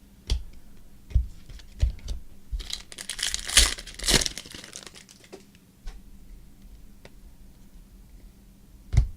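Foil wrapper of a trading-card pack crinkling and tearing open, loudest from about two and a half to four seconds in, with scattered soft taps and knocks of cards being handled before and after.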